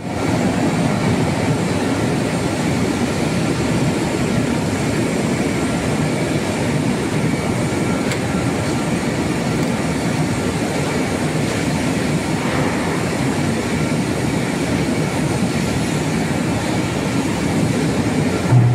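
Steel-plant ladle furnace with its electric arc running: a loud, steady, dense crackling noise that does not let up.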